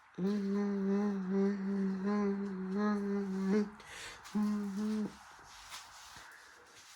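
A person humming with closed lips: one long held note of about three seconds at a steady low pitch, then a short second hum at the same pitch about a second later.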